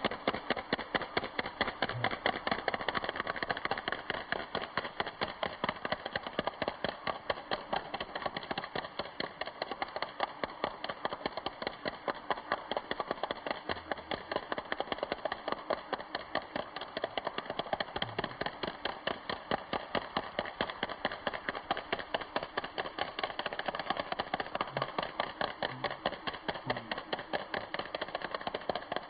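RC drift car's motor running with a steady, rapid, even pulsing that holds throughout.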